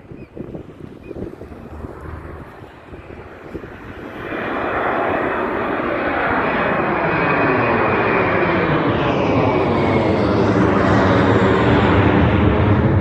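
Low-flying airplane's engines passing close by, faint at first, then much louder about four seconds in and still growing louder near the end.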